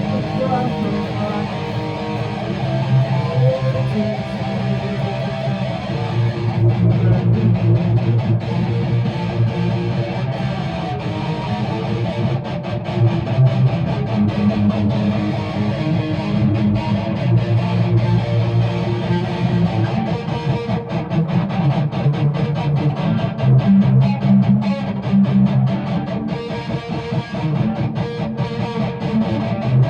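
Guitar being strummed in a steady run of chords.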